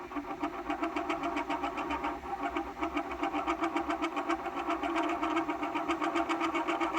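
Thorens TD 160 turntable motor running, heard as a rapid, even pulsing of about seven or eight beats a second.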